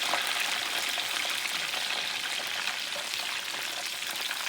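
Chicken breast pieces coated in egg and crushed pork rinds frying in a pan of hot oil: a steady sizzle with many fine crackles.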